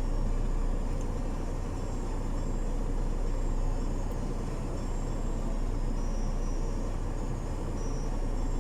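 Steady low drone of a semi truck's diesel engine idling, heard from inside the cab.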